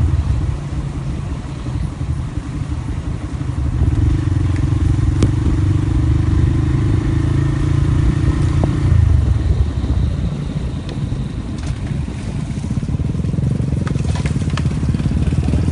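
A motor vehicle's engine running under way, with a steady drone and a hum that drops away about nine seconds in, and a few light clicks and rattles.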